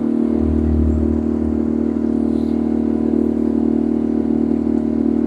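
Boat engine running steadily at cruising speed, a constant drone.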